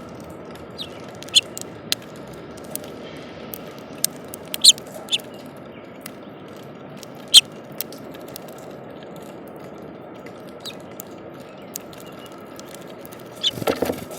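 Small bird pecking seeds at a feeder: sharp, irregularly spaced taps and clicks over a steady hiss, with a louder scuffle near the end.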